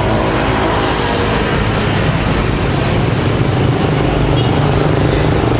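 Steady street traffic noise with an engine hum underneath.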